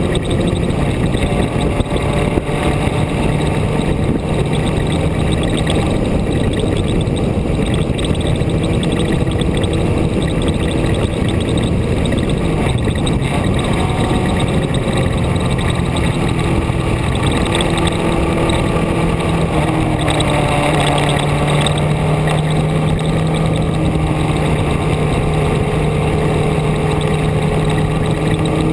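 Car being driven: steady engine and road noise, with the engine's pitch dropping and rising several times as its speed changes.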